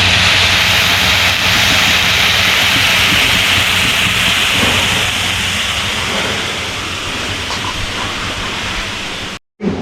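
Food frying in hot oil in a pan, a steady loud sizzle that slowly dies down.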